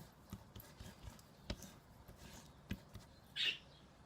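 Faint handling noises of pastry dough being rolled and pressed by hand on a work surface: a few soft taps and a short rustle about three and a half seconds in.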